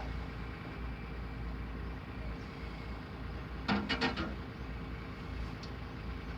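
A steady low mechanical drone, with a quick run of four or five sharp clinks a little under four seconds in.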